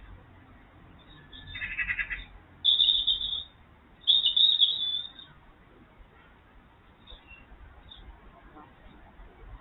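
Three short high-pitched animal calls: a brief buzzy one about a second and a half in, then two loud, shrill ones about three and four seconds in.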